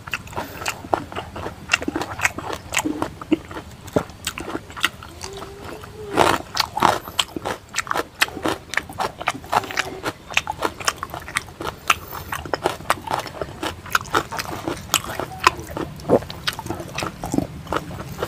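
Close-up mouth sounds of a person eating rice and pork curry by hand: chewing with many quick, irregular wet smacks and clicks of the lips and mouth.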